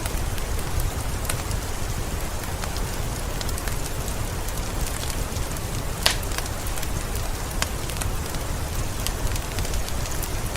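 Steady rain falling, mixed with the crackling of a wood fire in a fireplace: scattered small pops over the rain, with one sharper pop about six seconds in.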